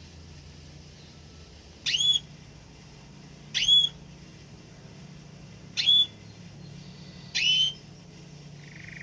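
A small songbird giving four short whistled call notes, each sweeping sharply upward, spaced a second and a half to two seconds apart, over a faint steady low hum.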